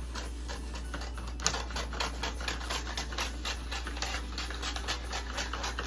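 Scissors snipping through gift-wrapping paper: a rapid run of sharp snips, several a second, with one louder snip about a second and a half in.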